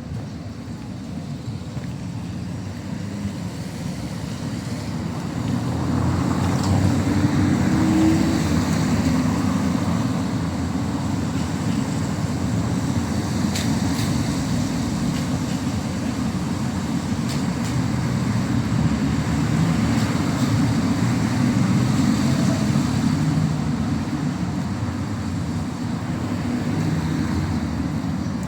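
City street traffic noise: the steady low rumble of passing cars and other road vehicles, growing louder about six seconds in.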